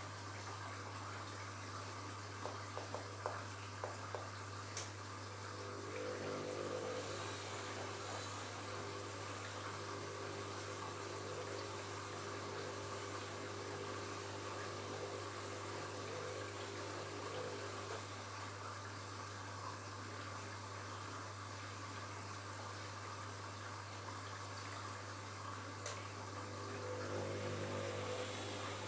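Washing machine running with water flowing, over a steady low hum. A pitched hum from a pump or valve comes in about six seconds in, stops near the middle and returns near the end.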